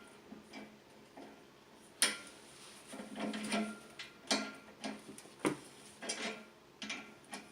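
Small metal parts and hand tools clinking and clicking against an old Hoffman #7 steam radiator valve as it is taken apart: a sharp clink about two seconds in, then several more irregular clicks.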